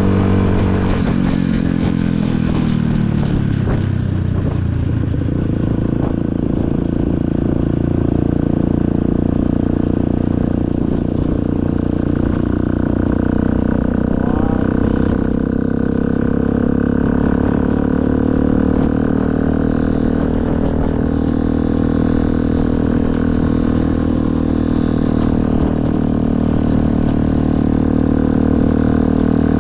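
Motorcycle engine running on the road. Its note drops over the first few seconds, then holds fairly steady.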